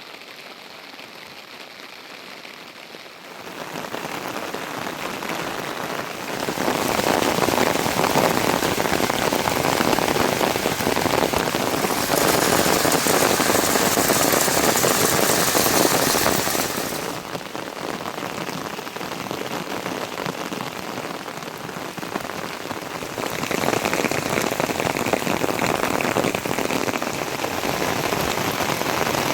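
Rain falling steadily, an even hiss of drops on surfaces. Its loudness jumps abruptly several times, quieter for the first few seconds and loudest around the middle.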